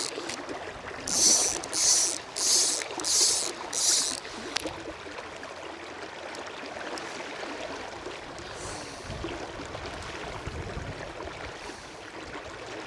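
Four quick, loud high-pitched buzzes in the first few seconds, typical of fly line being pulled off a clicker fly reel before the next cast. Then a steady rush of river water, with a low wind rumble on the microphone partway through.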